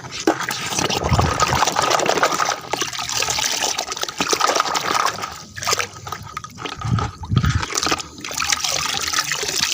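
Water running and splashing over muddy toy vehicles as they are washed, a steady rush broken by a few short pauses.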